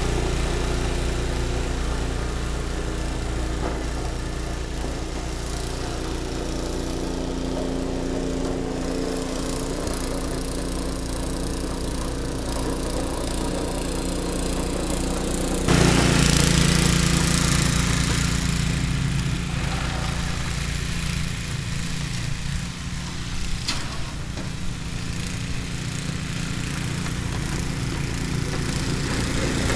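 Ariens two-stage snowblower's 5 HP Tecumseh single-cylinder engine running steadily while clearing snow. About halfway through the sound suddenly grows louder and brighter, then eases off.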